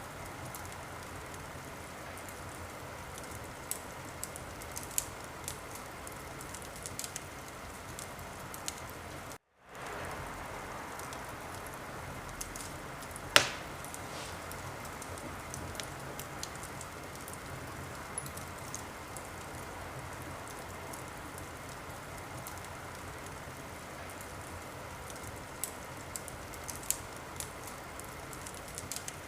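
Wood fire in a fireplace burning with a steady hiss and scattered crackles, and one sharp, loud pop about halfway through. The sound cuts out for a split second about a third of the way in.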